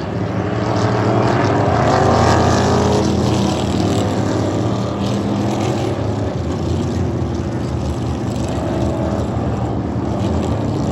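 A pack of NASCAR Cup Series cars with pushrod V8 engines passing the grandstand. A loud pass about two seconds in, its pitch falling as the cars go by, then a steady drone of engines running on the track.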